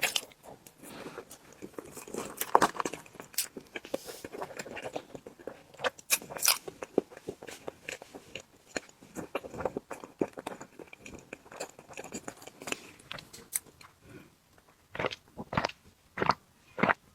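Close-miked eating sounds: irregular wet chewing, biting and mouth clicks. Near the end they turn into a run of sharp smacks about two a second.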